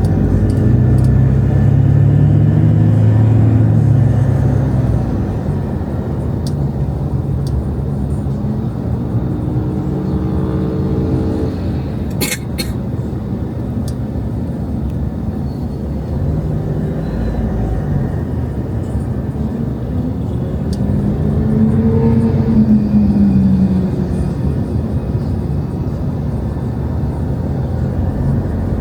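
Road traffic: vehicle engines humming and passing over a steady road noise, one engine rising and then falling in pitch about two-thirds of the way through, with a couple of sharp clicks near the middle.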